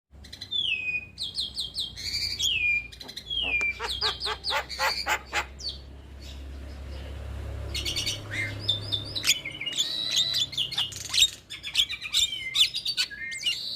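Javan myna (jalak kebo) singing a varied, chattering song: down-slurred whistles mixed with fast runs of clicking notes and harsh chatter, easing off for a couple of seconds around the middle before picking up again.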